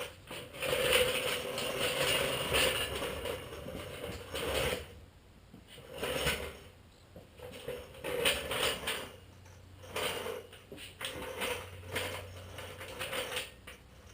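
Hand ratchet clicking as it is worked: a long run of rapid clicks for about the first four seconds, then short runs of clicks about once a second, stroke by stroke.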